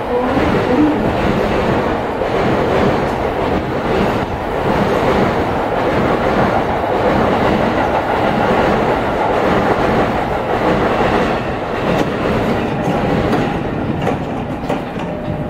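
A train running past on a neighbouring track: a steady, loud rumble with wheels clattering over the rail joints.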